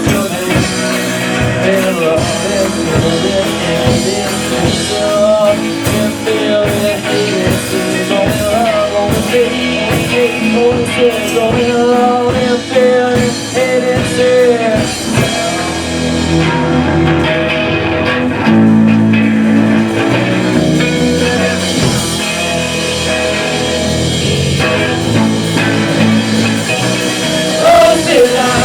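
Live rock band playing a loud, continuous passage: electric guitars over a drum kit, with a wavering melody line on top.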